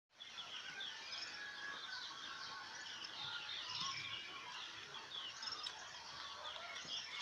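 Birds chirping and calling continually, faint, over a steady background hiss.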